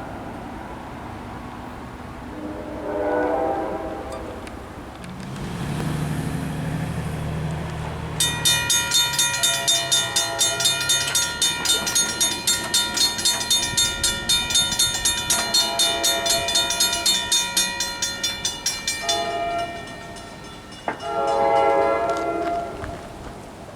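Passing train: a short horn blast, then a low rumble from the locomotive, then a warning bell ringing about four times a second for some ten seconds. A second horn blast sounds near the end.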